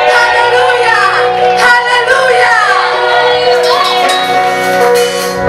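Voices singing over instrumental music, with long held notes underneath the gliding vocal lines.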